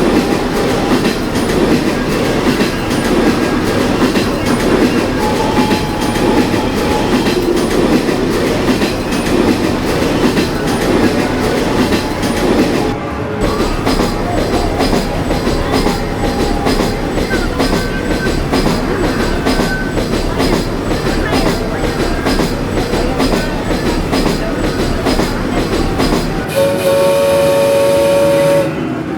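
Playground kiddie train ride running with train sounds, and a steady train-whistle tone sounding for about two seconds near the end.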